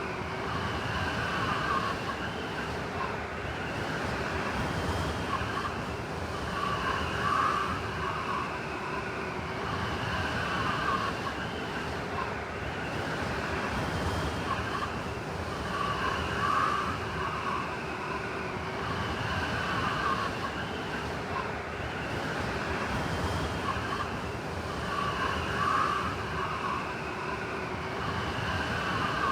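Blizzard wind blowing in a steady rush, with whistling tones that swell and fade in gusts every few seconds.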